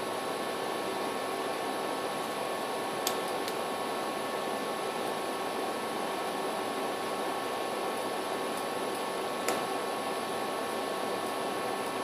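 Steady room noise: an even hiss with a faint constant hum, broken by two small clicks, about three seconds and nine and a half seconds in.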